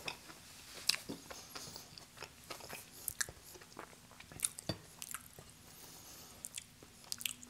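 Close-miked chewing of a mouthful of pepperoni-and-cheese pizza: soft, scattered wet mouth clicks and smacks.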